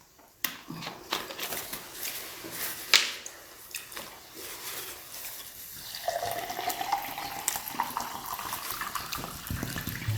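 Wet chewing and mouth-smacking noises of people eating large momo dumplings close to the microphone, with a few sharp clicks scattered through.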